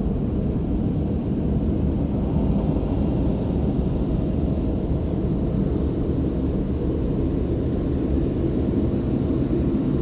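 Car wash contour blower dryers running on their second pass over the car: a steady rush of blown air with a low hum, growing slightly stronger near the end.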